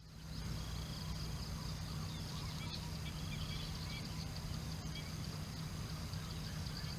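Outdoor field ambience: a steady low hum and a steady high-pitched buzz, with a few faint, short bird chirps and a couple of soft clicks in the middle.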